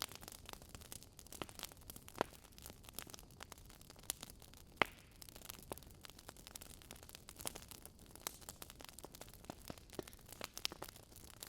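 Burning wood logs crackling: irregular sharp pops and snaps over a soft steady hiss, the two loudest pops about two and five seconds in.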